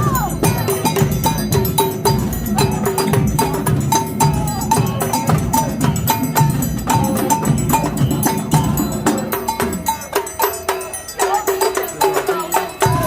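Percussion music with a quick, steady beat of short bell-like notes at a high and a low pitch over dense drum and block hits; the low drums drop away for a moment about ten seconds in.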